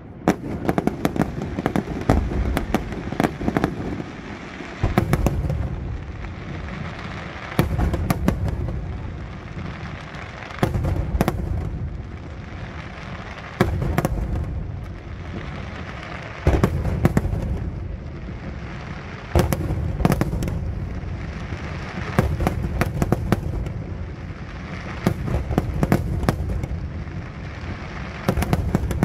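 Aerial firework shells bursting in a professional display: a loud bang about every three seconds, each followed by a low rumble, with crackling and smaller reports in between.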